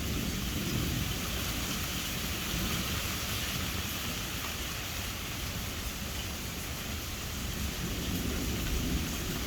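Steady rain falling through a thunderstorm, with low rolling thunder that swells near the start and again near the end.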